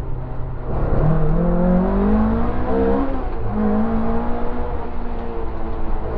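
Opel Ascona 400 rally car's four-cylinder engine heard from inside the cockpit under hard acceleration. The revs drop at a gearshift just under a second in, climb steadily to about three seconds, drop briefly at the next shift, then hold high.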